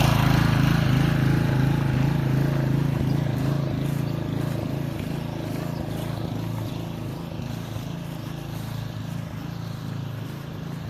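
Small gasoline engine of a pressure washer running steadily and slowly getting quieter, with no water spraying because a kink in the hose is blocking the flow.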